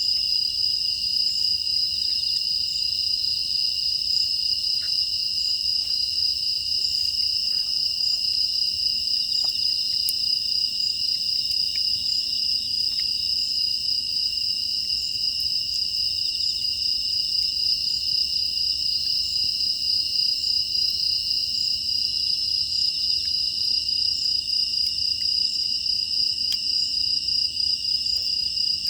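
Steady, dense chorus of crickets and other grass insects, a shrill continuous trilling, with a few faint scattered clicks.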